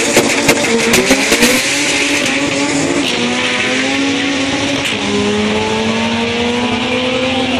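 Car engine revving with its pitch climbing steadily, dropping back about five seconds in and then climbing again, over a steady hiss of tyre squeal and a few sharp pops in the first second and a half.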